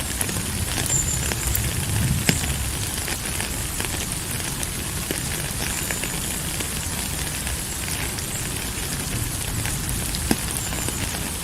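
Steady rain falling, an even hiss with a low rumble beneath and scattered sharp drop clicks, one louder click about ten seconds in.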